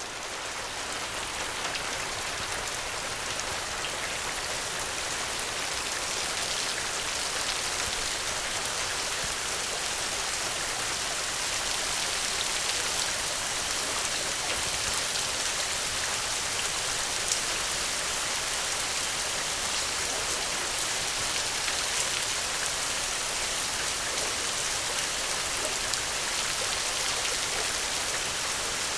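Steady rain falling: a dense, even hiss with scattered single drops ticking through it. It swells up from near silence over the first second or two, then holds level.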